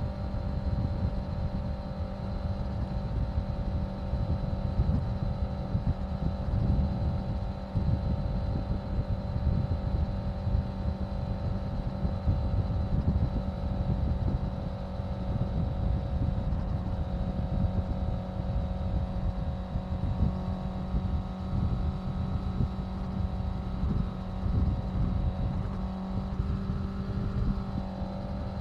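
Honda CBR650F's 649 cc inline-four engine running at steady cruising revs on the move, with wind rumbling over the microphone.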